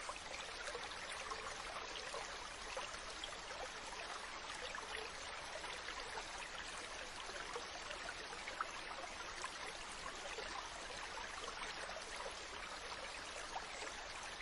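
Mountain stream running steadily over rocks: an even rushing and babbling of water with small splashes throughout.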